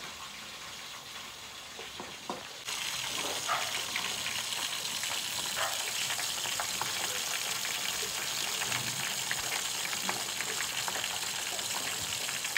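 Lobster pieces sizzling and crackling in a covered frying pan on a gas stove. The sizzle jumps up sharply a little under three seconds in and then holds steady.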